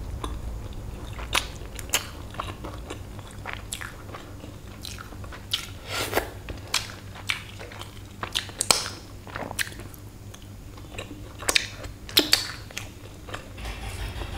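Close-up biting and chewing of crispy breaded fried chicken: irregular sharp crunches scattered through, with softer wet chewing between them.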